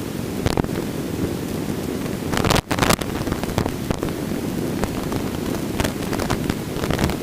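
Steady helicopter cabin noise in flight: the rumble of the rotor and engine, heaviest in the low end. About two and a half seconds in there is a brief louder burst and a momentary dropout.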